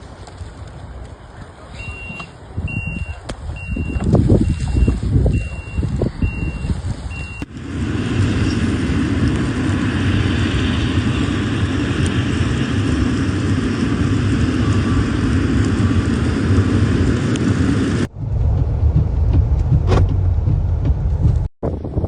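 A vehicle's reversing alarm beeping evenly, about once every second, over low rumbling noise. Then, after an abrupt cut, a steady loud rushing noise with more abrupt cuts near the end.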